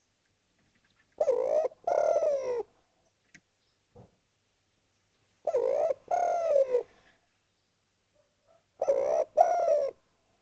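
Spotted dove cooing: three calls about four seconds apart, each a short coo followed by a longer one that falls in pitch.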